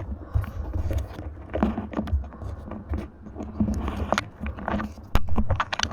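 Hands fumbling with a dynamo lamp's cable and connector near the microphone: irregular clicks, scrapes and rustles over a low rumble.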